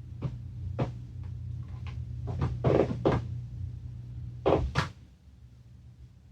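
A string of short knocks and clacks, about nine in a few seconds, from parts and tools being handled on a workbench. They sound over a steady low hum that drops out about five seconds in.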